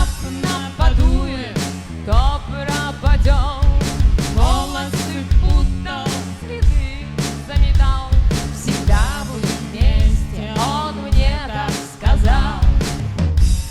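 Rock band playing live, loud: a drum kit keeps a steady beat with kick drum and cymbals under bass and guitar, with a wavering melodic line on top.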